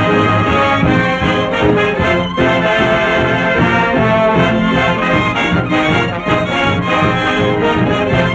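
Orchestra playing an instrumental passage, with trombones and trumpets carrying the tune.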